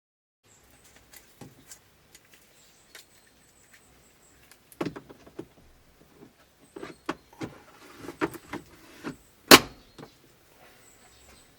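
Scattered plastic clicks and knocks of hands working the cabin filter housing of a 2009 Kia Rio, growing busier in the second half, with one sharp snap about nine and a half seconds in.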